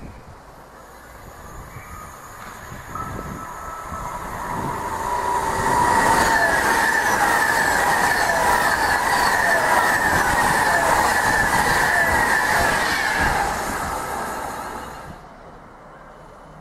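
A train passing close by, growing louder, staying loud for about seven seconds, then fading. Its wheels click rapidly over the rail joints under a steady high ringing tone.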